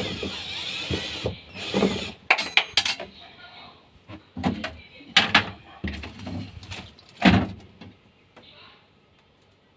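Irregular clicks, knocks and rattles of screws and a hand tool being handled while screws are put back into a refrigerator's panels, with a sharp knock a little after seven seconds in.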